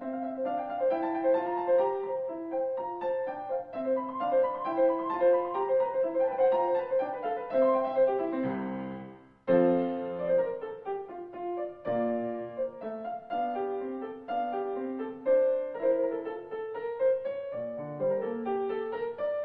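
Background piano music playing a steady run of notes. It fades out about halfway through and starts again abruptly.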